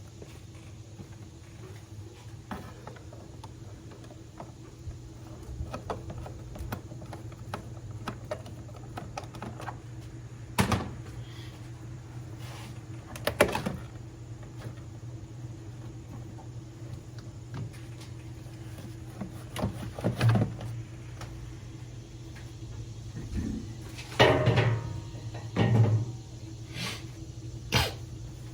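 Hand tools and metal parts clicking and clanking during disassembly under the hood, with a few louder knocks about 11, 13 and 20 seconds in and several more near the end, over a steady low hum.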